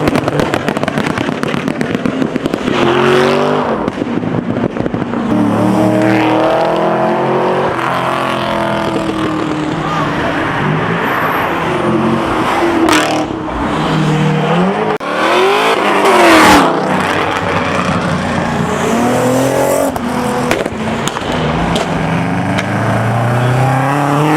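Several cars revving and accelerating away one after another, each engine note rising and then falling in pitch as it passes, the loudest about two-thirds of the way through.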